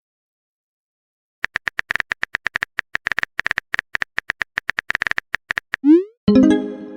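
Phone keyboard tapping sound effect: a rapid run of clicks, several a second, for about four seconds after a short silence. Near the end comes a quick rising swoosh and a chime, the sound of a chat message being sent or arriving.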